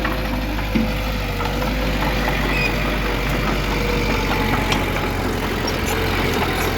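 Heavy construction machinery's diesel engine running steadily at low revs, with one short knock about a second in.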